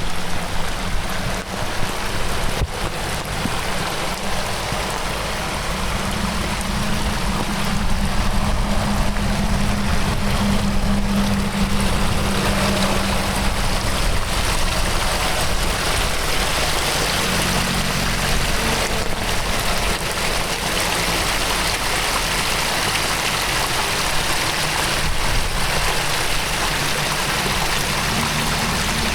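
Heavy rain falling together with a swollen stream rushing, a steady even hiss with a low rumble beneath it.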